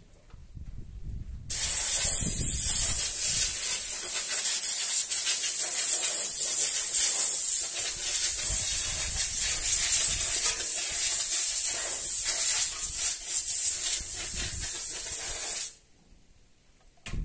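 Compressed-air blow gun blowing out a valve cover: one steady, loud hiss that starts abruptly about a second and a half in and cuts off about a second before the end.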